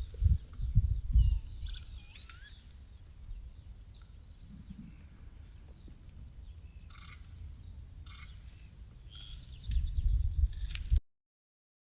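Small birds chirping with short, curving calls, over low gusts of wind buffeting the microphone, strongest at the start and again near the end. The sound cuts off abruptly just before the end.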